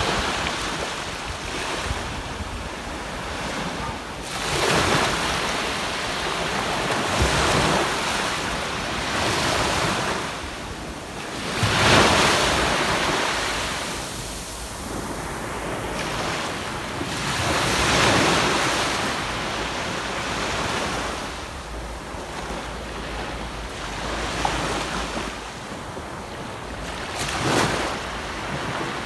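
Sea waves breaking and washing up a beach, surging and fading every few seconds, the loudest about twelve seconds in, with wind rumbling on the microphone.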